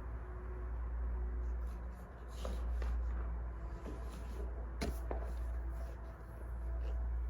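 Burning firewood crackling, with a few sharp pops near the middle over a low rumble that rises and falls.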